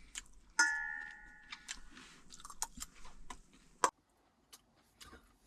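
Eating utensils in a bowl: scattered small clicks and scrapes, with one ringing clink about half a second in that rings for about a second.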